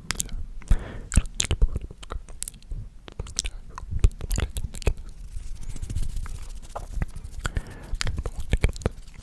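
Close-up ASMR mouth sounds: irregular wet clicks and smacks of lips and tongue right at the microphone, with brief stretches of soft unintelligible whispering.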